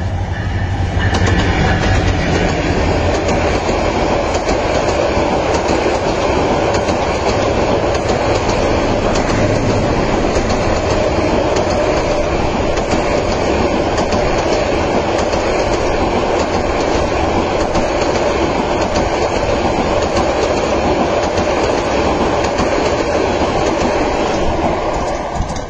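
Bangladesh Railway Subarna Express intercity train running through the station at speed. Its diesel locomotive passes first, then a long rake of coaches rushes by with wheels clattering on the track, loud and steady until it drops away at the very end.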